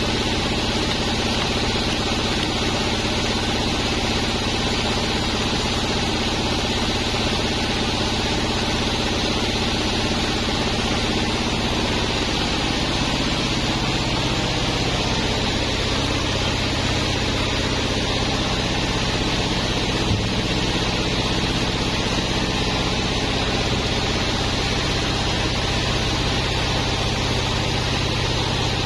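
Large sawmill bandsaw running with a steady machine hum and whir; the pitch of the hum shifts a little about halfway through.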